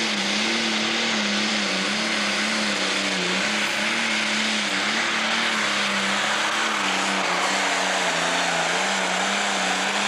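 Diesel Pro Stock pulling tractor under full power, pulling the sled down the track. Its loud, steady engine note wavers up and down in pitch as it pulls.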